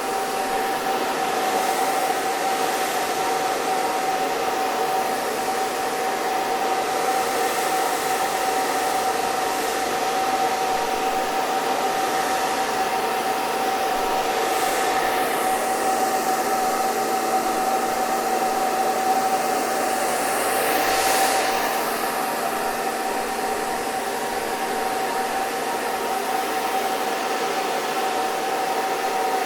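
Electric hair dryer running continuously: a steady rush of blown air over a constant motor whine. The airy hiss shifts slightly twice, with a small swell about two-thirds of the way in.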